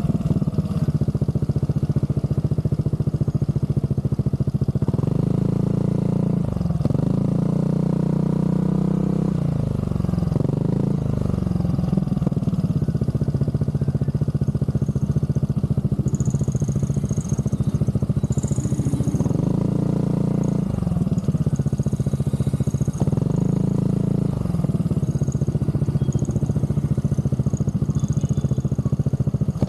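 Scooter engine running through a Zard aftermarket exhaust, with a raw, crisp note; the revs rise and fall several times as the throttle is opened and closed.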